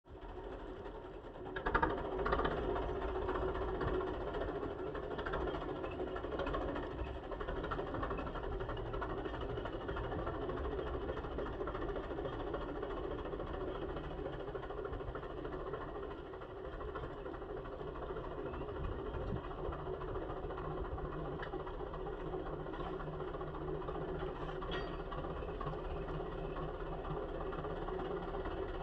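Tractor engine running steadily, briefly louder about two seconds in.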